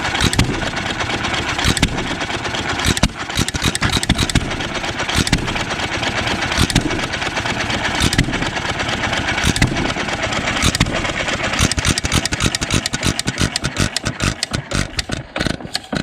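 1.5 hp John Deere hit-and-miss stationary engine running on brake cleaner sprayed in as starting fluid, its bad gas not yet cleaned out. It fires a loud stroke about every second and a half, and over the last few seconds the firing comes faster and unevenly.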